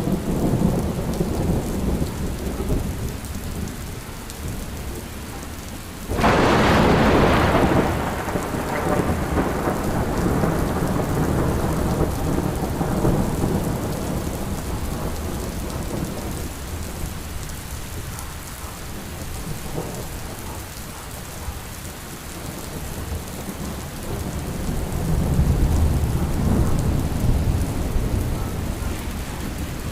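Steady rain with thunder: a sharp thunderclap about six seconds in that rumbles away over several seconds, and a low rolling rumble near the end.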